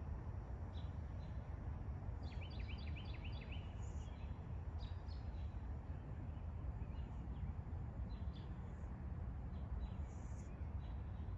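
Wild birds chirping: a quick run of about seven short, falling notes about two seconds in, then scattered single chirps, over a steady low rumble.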